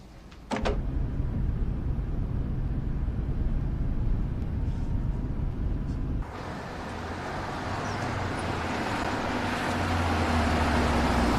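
A car driving: a steady low engine and road rumble. About six seconds in it changes abruptly to a brighter, even rush of road noise with a steady low hum.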